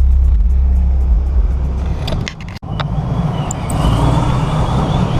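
Vehicle engines and exhaust running with a steady, dense rumble. It follows heavy low bass in the first half that cuts off abruptly a little past halfway.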